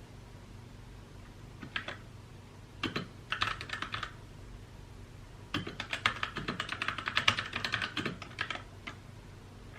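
Mechanical keyboard being typed on in three bursts of rapid key clicks, a short one about two seconds in, then a second of typing, then a longer run of about three seconds, with pauses between.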